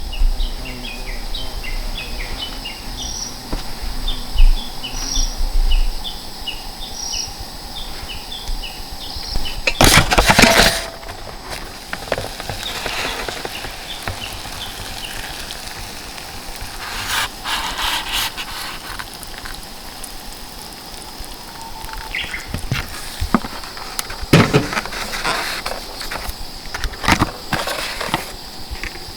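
Outdoor ambience of insects: a steady high-pitched trill throughout, and a rapid series of short chirping calls over the first nine seconds or so. Scattered knocks and rustles of things being handled come and go, the loudest a short clatter about ten seconds in.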